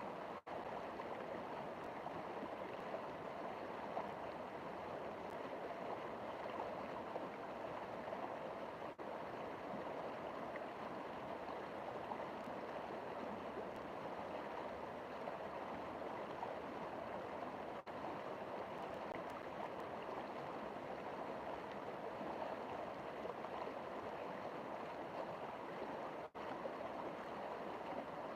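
River water flowing in a steady, even rush, briefly cutting out three times about nine seconds apart.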